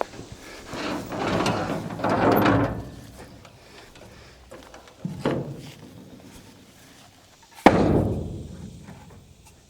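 A loud, sudden slam near the end that rings out for more than a second, after a single sharper knock about halfway through and a rough, swelling scraping noise early on.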